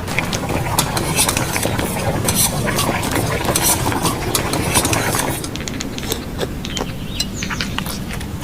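Kitchen utensils clinking and scraping against a pot or bowl, as in stirring, with many quick clicks over a steady noise that eases off about five seconds in.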